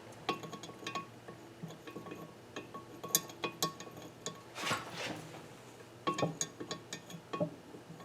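Light metallic clinks and taps of small steel valve-train parts being handled and set in place on a KA24DE cylinder head, scattered irregularly, with a brief rustle about halfway through.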